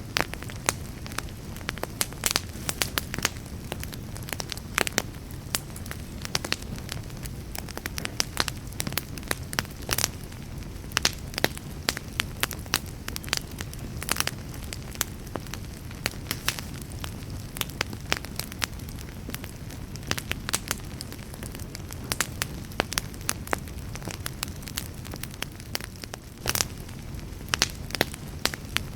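Wood fire in a fireplace crackling: a steady low rumble of flames with frequent sharp, irregular pops and snaps.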